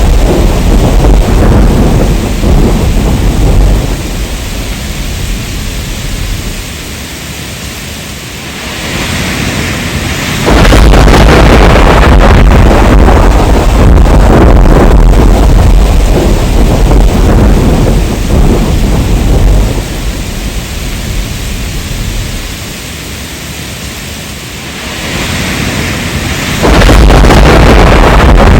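Heavy rain with rolling thunder. A loud, deep rumble of thunder sets in suddenly about ten seconds in and again near the end. Each time it dies away over several seconds into a steady hiss of rain.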